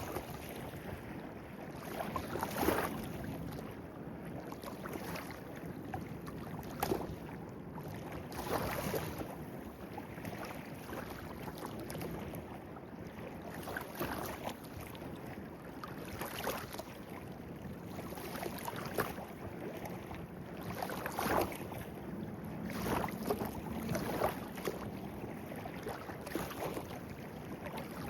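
Small clear-water stream running steadily, with frequent brief splashes and gurgles over the top.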